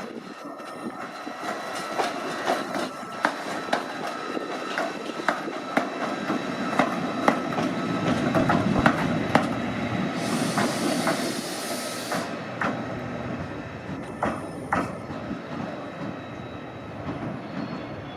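Train running through the station, its wheels clicking over rail joints while the rumble builds to a peak just before halfway, with a short burst of hiss about ten seconds in.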